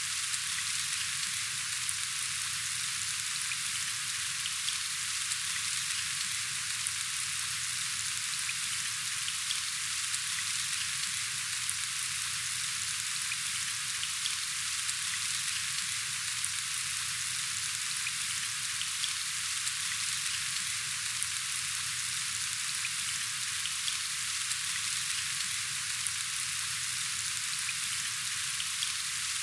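Steady rain falling, an even hiss of many fine drops with no let-up.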